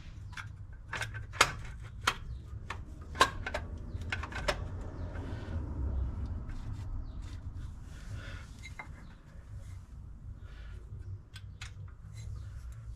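Clicks and knocks of an HEI distributor being worked out of and back into its bore on a 400 small-block Chevy, with a few sharper knocks in the first few seconds over a low rumble. The distributor is being reseated because its rotor turned too far on the drive gear and must be brought round to the number 1 position.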